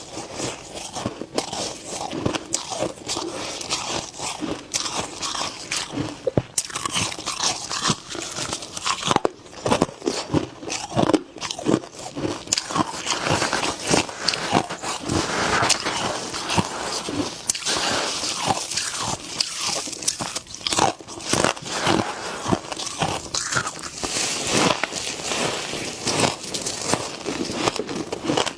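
A person biting and chewing freezer frost close to the microphone: dense, irregular crisp crunches throughout.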